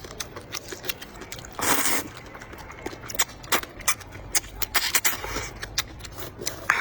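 Close-miked eating: irregular wet chewing and lip-smacking clicks, with a short rushing breath-like noise about two seconds in.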